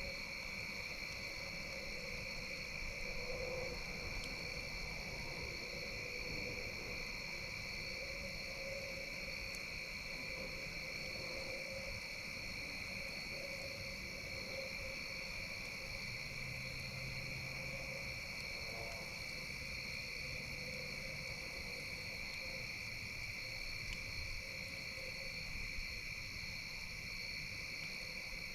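Steady outdoor night chorus of insects, most likely crickets, in an unbroken high-pitched trill, with a fainter, lower wavering tone underneath and a few faint ticks from the campfire.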